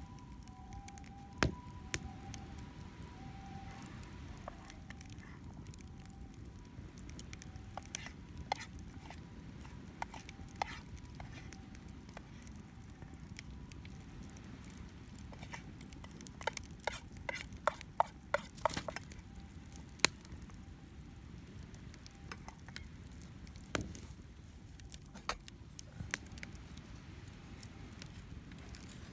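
Wood campfire of cedar and oak firewood crackling, with scattered sharp pops that cluster about halfway through, over a steady low rumble of waves and wind. A distant ambulance's two-tone "pee-po" siren fades away in the first part.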